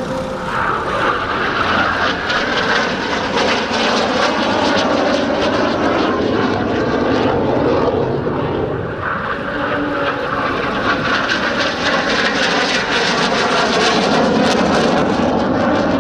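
IAR-99 Șoim jet trainer engines running loud through a display flypast. Their pitch shifts as the aircraft pass, with a slight dip about halfway through before the noise swells again.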